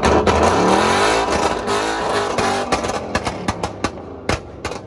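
A sports car engine revving: its note sweeps down and back up after a hard blip of the throttle, then fades. From about three seconds in it is followed by a run of sharp, irregular pops.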